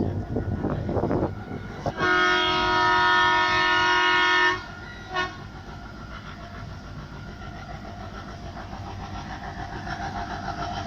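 WDG3A diesel locomotive sounding its multi-tone horn in one long blast of about two and a half seconds, then one short toot. Around it, the train's running noise and wheel clatter on the rails, growing louder near the end.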